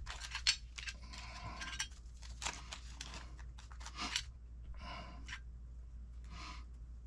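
Faint, scattered clicks and light rattles of small screws and metal hardware being handled and sorted, then two short rustles near the end.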